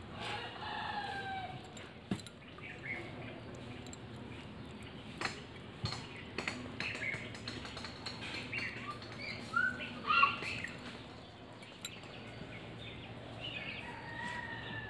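Birds chirping and calling in short bursts, with a cluster of louder chirps about two-thirds of the way in, and a few light clicks.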